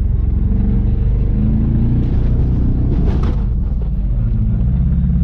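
Jeep Grand Cherokee (WJ) engine running while the Jeep is driven, a steady low drone whose pitch shifts a little as the revs change.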